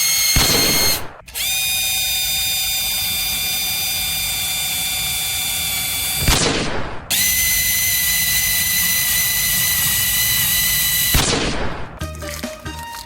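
Electric drill boring through a sealed booster pack of trading cards. The motor whines steadily, with three short rough grinding stretches as the bit bites: about half a second in, around six seconds, and around eleven seconds. Just after a second the motor stops briefly and spins back up. Music comes in near the end.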